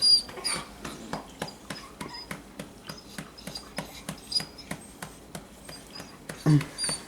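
Dog whining in short, high-pitched squeaks, repeated throughout, over light clicks and taps. A louder, short low sound comes near the end.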